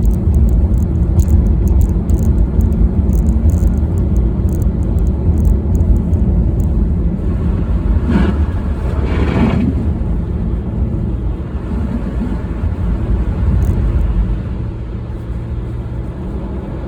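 Car road and engine noise as heard while driving: a steady low rumble, with a brief louder rushing sound about eight seconds in, easing off somewhat near the end.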